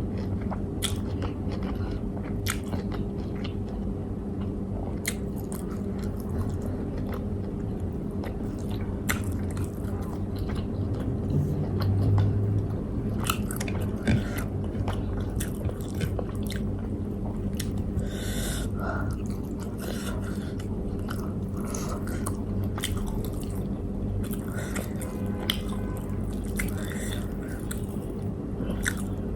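A person chewing and biting food close to the microphone, with many small sharp mouth clicks and smacks. A steady low hum runs underneath.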